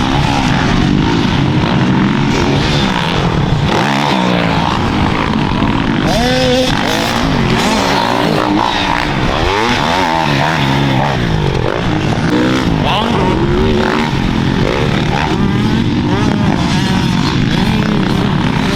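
Dirt bike engines revving, their pitch climbing and dropping again and again as they run through the gears. Several pitches overlap and cross at once.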